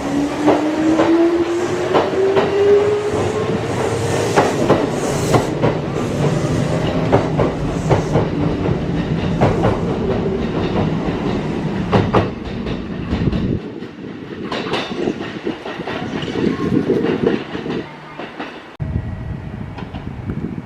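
Kintetsu electric train pulling away, its traction motor whine rising in pitch over the first few seconds while the wheels clack over rail joints; the running sound fades away in the second half.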